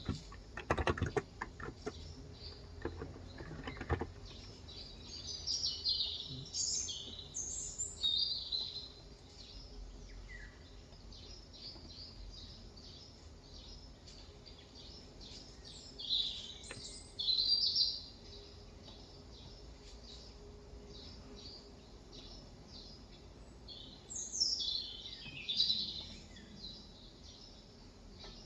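Small birds chirping and twittering in bursts. A short run of typing on a Cox Endeavor electro-capacitive (Topre-style) keyboard clicks along under them for the first few seconds, then stops.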